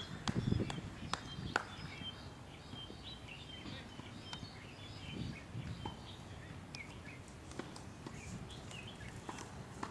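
Birds chirping in short, repeated calls over a steady outdoor hiss, with a few sharp clicks in the first two seconds.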